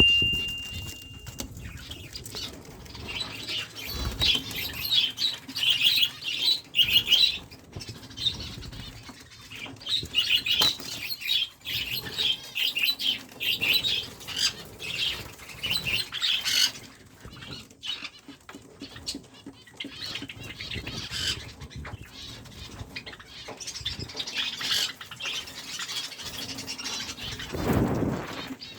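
A flock of small cage birds chirping rapidly together while wings flutter and rustle against their cages. There is a louder thump near the end.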